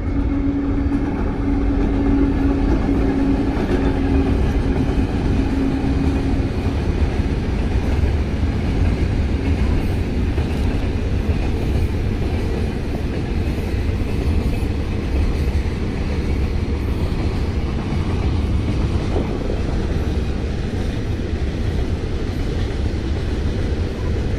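A diesel locomotive hauling a long freight train of open wagons rolls past. Its engine gives a steady tone for the first several seconds, then the wagons keep rumbling by steadily.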